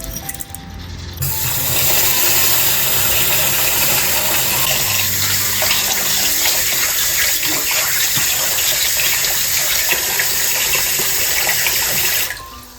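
Water running in a steady, loud rush that starts about a second in and cuts off abruptly near the end, with soft background music underneath.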